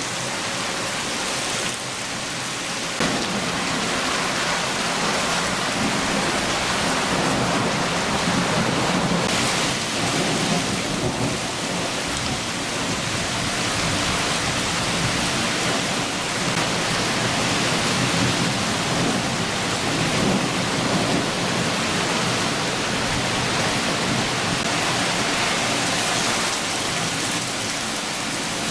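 Steady downpour of a summer rain shower, a dense even hiss of rain, with low thunder rumbling underneath from about three seconds in.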